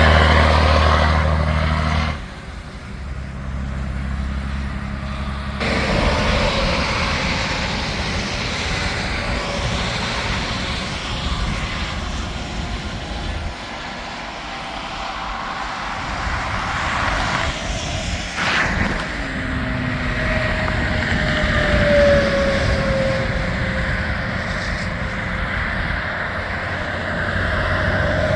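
Interstate highway traffic: the steady noise of vehicles and trucks passing, with a loud low diesel engine hum in the first two seconds that cuts off suddenly.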